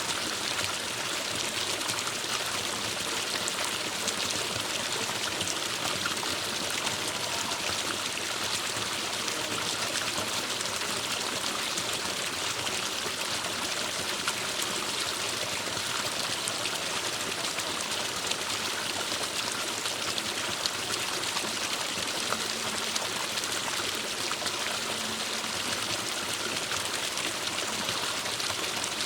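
Forest stream flowing over rocks, a steady rushing and trickling.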